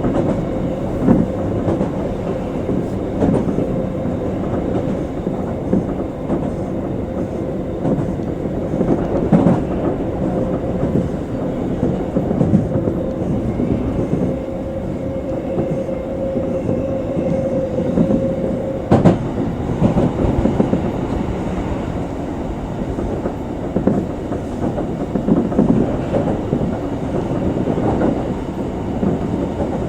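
Electric commuter train running between stations, heard from inside the front car: a steady rumble of wheels on rail with scattered clicks over rail joints. A steady hum holds for several seconds and cuts off with a click about nineteen seconds in.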